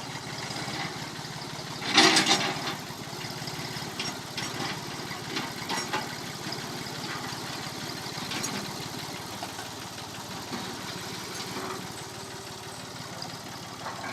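Massey Ferguson 245 tractor engine running steadily, with a loud short clatter about two seconds in and a few lighter knocks after.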